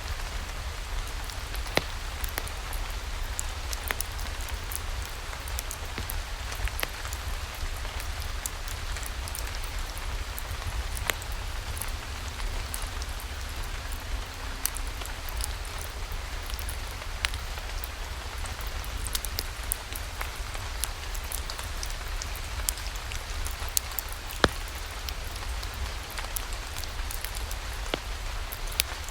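Steady rain falling, with scattered sharp single clicks every second or so.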